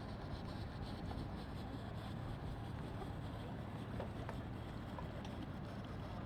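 Faint, steady low hum of boat motors idling, with a couple of light knocks about four seconds in.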